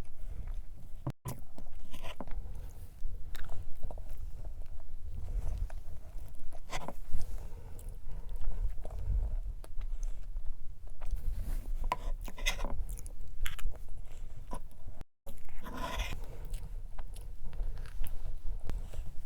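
Close-miked chewing and biting, the mouth sounds of eating strawberry cream cake, with small wet clicks and smacks.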